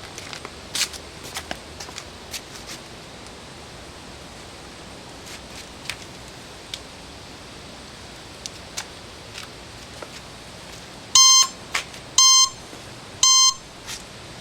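Motorcycle alarm system beeping: three loud, steady electronic beeps about a second apart near the end, after some scattered light clicks of handling. The engine is not running.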